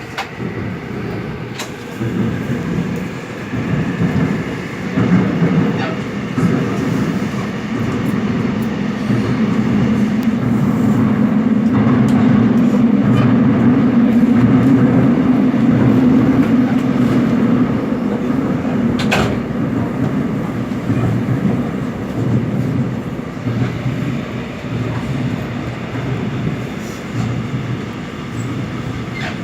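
Seoul Metro Line 7 subway train running between stations: a steady rumble of wheels on rail that grows louder in the middle and eases toward the end, with a couple of sharp clicks.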